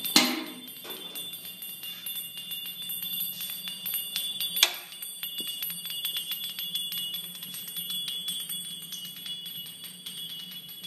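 Loose metal flywheel from a small Stirling engine, spun up with compressed air, spinning and rattling as it bounces around, with a dense metallic jingling, a steady high whine, and two sharp knocks, one right at the start and one about four and a half seconds in.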